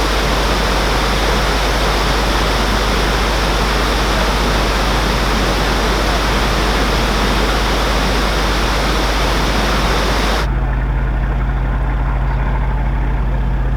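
Narrowboat's diesel engine running steadily, under a loud rushing noise that cuts off abruptly about ten seconds in, leaving the low engine hum.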